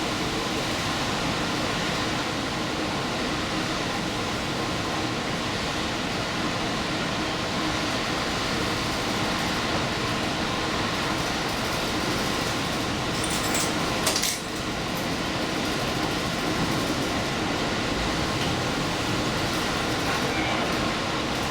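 Steady running noise of a diesel limited express train, heard from inside at the front of the train. A short, sharp burst of noise comes about two-thirds of the way through.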